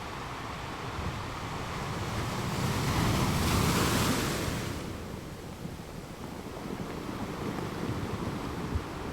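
A sea wave washing in: a rushing noise that swells, peaks a few seconds in, then fades back to a low steady hiss.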